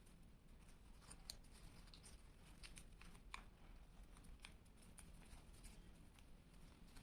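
Faint, irregular crinkles and ticks of paper being handled and creased by hand during origami folding, over a low room hum.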